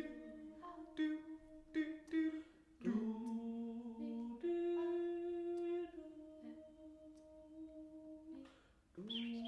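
A cappella choir voices humming wordless held chords in several parts, the notes shifting every second or two. The sound thins out and grows quieter in the second half, then a new chord comes in near the end.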